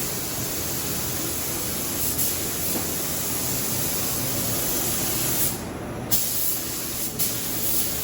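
A steady, loud hiss that dips briefly about five and a half seconds in.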